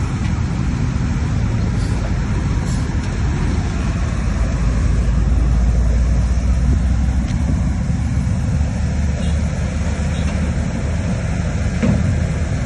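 Heavy diesel earthmoving machinery running, a deep steady engine rumble that swells a little around the middle.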